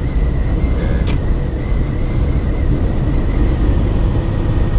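Steady low road and engine noise inside a truck cab at highway speed, with a faint steady high whine and a single click about a second in.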